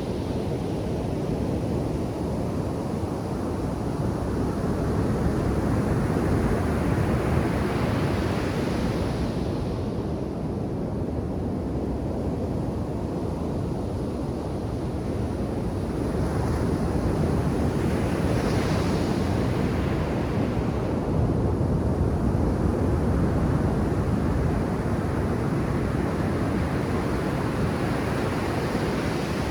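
Ocean surf breaking and washing on a sandy beach, a steady rush with slow swells as waves come in, with wind on the microphone.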